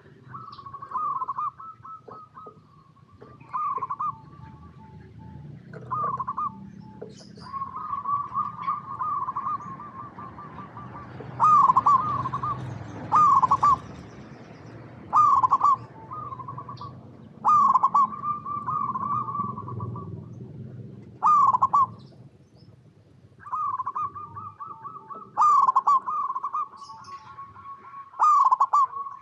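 Zebra dove (perkutut) calling: repeated phrases of quick, staccato cooing notes, each a second or two long, come every couple of seconds, some of them overlapping. Fainter high chirps run through them.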